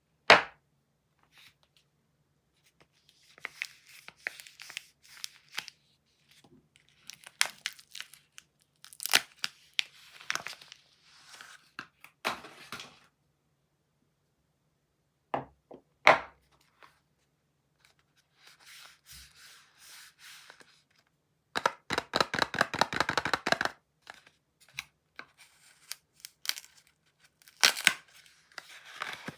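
Soap wrappers being torn open and crinkled by hand, in short bouts of tearing and rustling. A few sharp taps and knocks are mixed in, with one longer run of rapid tearing about two-thirds of the way through.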